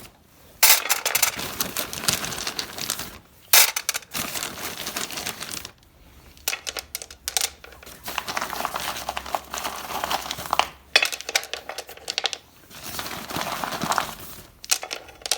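Loose stones clattering against one another and a small metal grate as they are piled up by hand, a dense run of clacks and rattles broken by a few short pauses.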